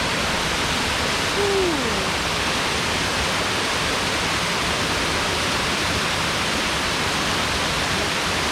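Boyana waterfall's water pouring down in a steady, loud rush. A short falling tone is heard about a second and a half in.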